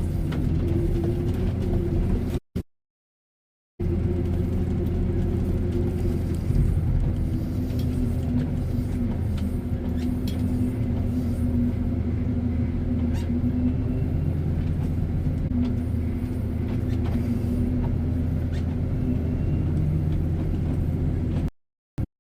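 Tractor engine running steadily with a low hum and a few faint knocks. The sound cuts out completely twice: for about a second near the start and briefly at the end.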